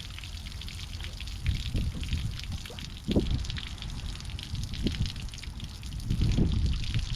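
Water pouring and trickling out of a swamped Sea-Doo jet ski, a steady splashing flow with many small drips. The water leaked in through the exhaust, and the owner takes the amount as a sign the leak has got worse.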